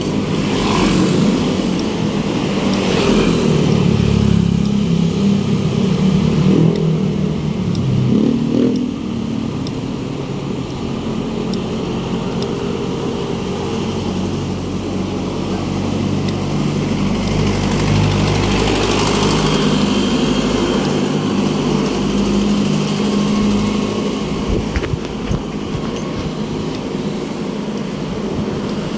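City street traffic: motorcycle and car engines running and passing close by, with occasional revving.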